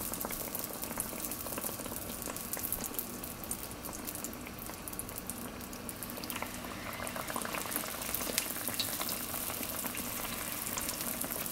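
Fry-bake dough sizzling and crackling in very hot oil in a cast-iron skillet, a steady fine crackle. About six seconds in a second piece of dough is lowered into the oil, and a denser patch of crackling follows.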